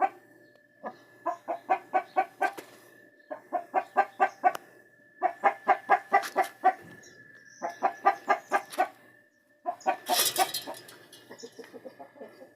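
A chicken clucking in quick runs of several clucks, about five clucks a second, five runs with short pauses between. A faint steady high tone sounds underneath.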